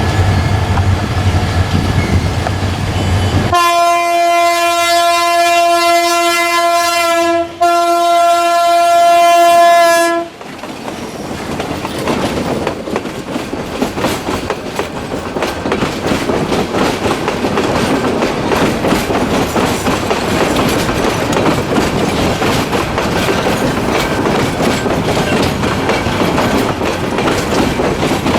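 Express train's diesel locomotive approaching with a low engine hum, then sounding its horn in two long blasts with a brief gap between them. The train then passes close by, its wheels clattering rhythmically over the rail joints.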